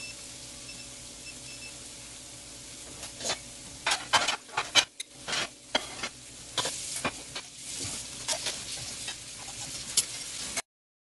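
Ginger and dried red chili peppers sizzling in oil in a wok with a steady hiss. From about three seconds in, a spatula clicks and scrapes against the wok as they are stirred, and the sound cuts off abruptly near the end.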